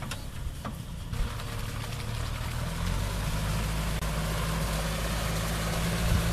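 Kubota M6040 tractor's four-cylinder diesel engine running, its note shifting about two seconds in and then running steadily.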